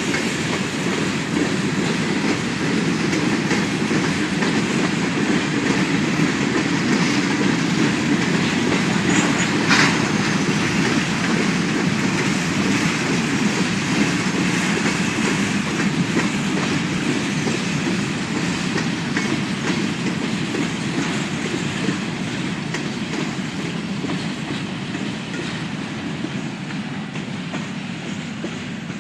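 Norfolk Southern freight train of empty grain cars rolling past, the wheels clicking steadily over the rail joints, with one sharp clank about ten seconds in. The sound slowly fades near the end.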